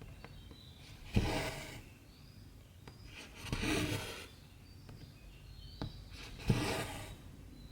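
Needle pushed through 14-count cross-stitch fabric and cotton thread drawn through after it, three times: each stitch a sharp tick followed by a short rasping pull, a couple of seconds apart.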